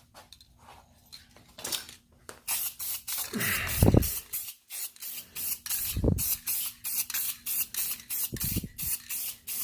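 Rust-Oleum matte black aerosol spray can fired in short, quick bursts, about three a second, starting about two seconds in, to mist on a light feathered blackout coat. A few low thuds come in among the bursts.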